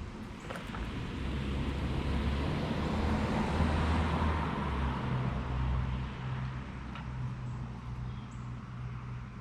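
An engine running steadily under a rushing noise that swells to a peak about four seconds in and then fades.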